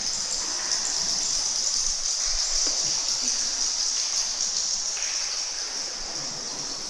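A steady high-pitched hiss of outdoor ambience, with no single event standing out.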